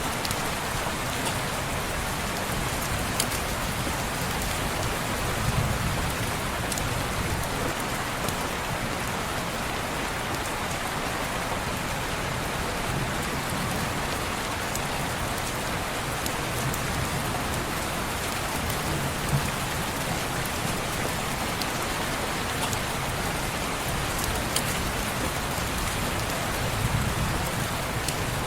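Steady rain falling on a window, an even hiss of drops on glass, with a few scattered sharp ticks.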